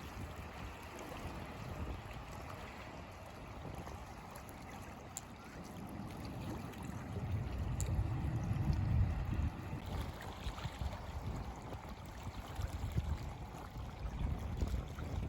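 Wind buffeting the microphone over a steady wash of sea water. The low rumble swells about eight seconds in and again near the end.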